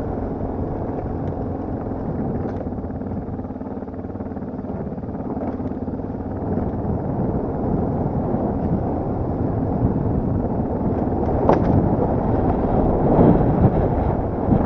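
Enduro dirt bike's engine running at low revs while riding slowly, gradually getting louder toward the end, with a sharp knock about three quarters of the way through.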